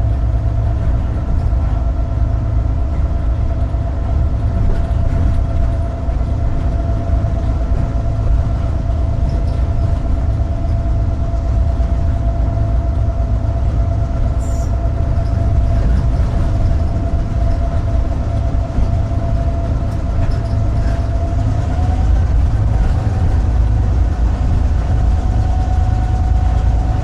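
Cab noise of a GP38-2 diesel-electric locomotive under way: its EMD 16-cylinder 645 diesel gives a loud, steady low rumble, with a steady whine above it that steps up slightly in pitch about 22 seconds in.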